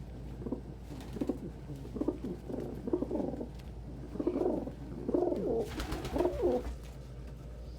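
Domestic pigeons cooing, a run of repeated low coos, with a brief rustling noise about six seconds in.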